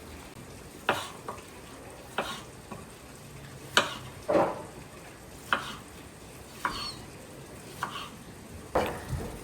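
Food frying in a pan with a steady sizzle, stirred with a utensil that scrapes and knocks against the pan about eight times, roughly once a second.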